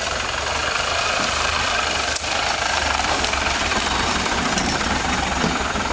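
Engine of a Land Rover 4x4 running steadily with a low, even throb as the vehicle crawls down a steep muddy slope and passes close by.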